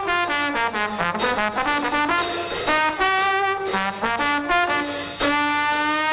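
Jazzy brass music from a cartoon soundtrack: a trombone or trumpet playing a run of short notes and a few held ones, with a band behind it.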